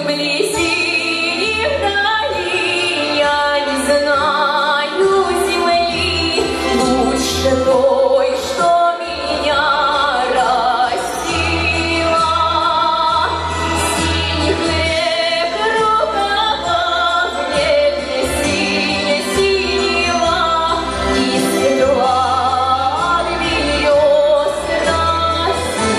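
A woman singing a song in a full voice with wide vibrato, over instrumental backing with sustained bass notes.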